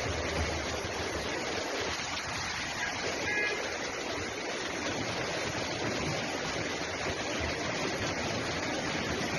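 Floodwater rushing, a steady unbroken roar of water.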